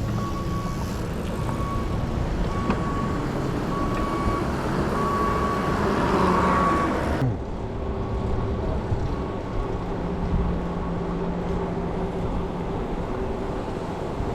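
Steady street and traffic noise heard from a bicycle while riding, with an on-and-off high beeping tone through the first half that cuts off about halfway through.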